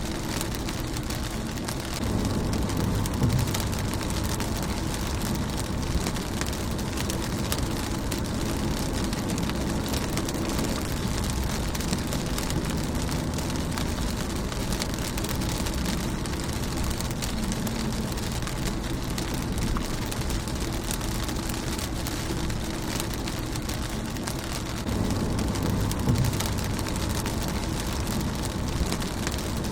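Steady rain pattering on a car's windshield, with many individual drops tapping on the glass. A low rumble swells twice, about two seconds in and again near the end.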